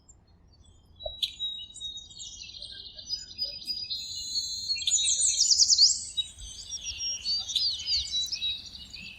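Several birds singing and chirping, starting about a second in: a dense mix of trills and quick sweeping whistles, busiest around the middle.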